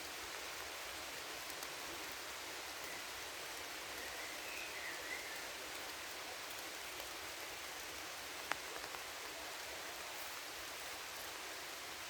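Steady rain falling, an even hiss of many drops. One sharp drip lands about eight and a half seconds in.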